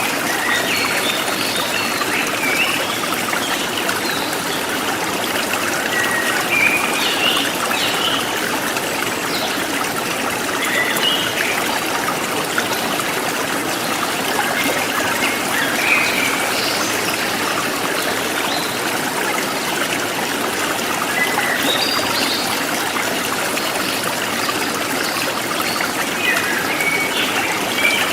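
River water flowing steadily in a shallow stream, an even rushing trickle with no pauses. Short high sounds come and go on top of it throughout.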